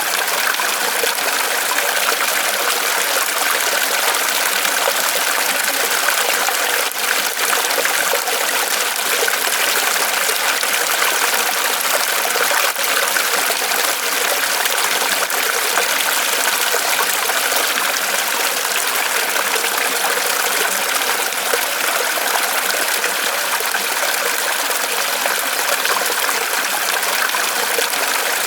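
Small waterfall of water trickling and splashing steadily down from a tree trunk.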